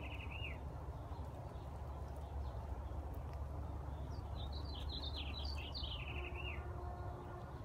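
A songbird singing: a quick jumble of high notes falling at the end, heard ending about half a second in and again as a full phrase of about two seconds in the second half, over a steady low rumble.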